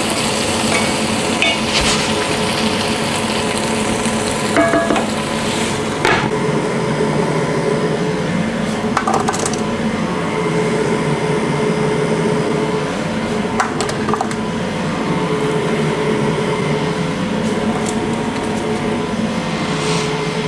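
Food sizzling steadily in a frying pan, with a few sharp clinks and scrapes of a utensil against the pan as it is stirred.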